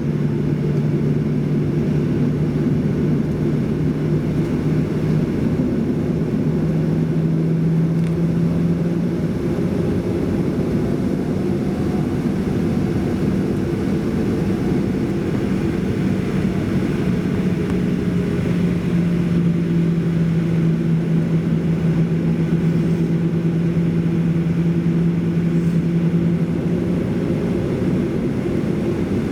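Steady cabin noise inside a Boeing 737-800 jet airliner: a continuous drone of the CFM56 engines and airflow, with a low hum that shifts slightly in pitch a couple of times.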